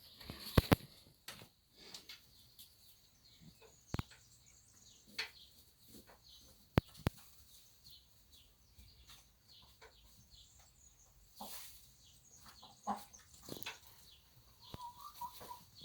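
Hens clucking in short, scattered calls as they squabble over a laying spot, with several sharp knocks, the loudest within the first second and around seven seconds in.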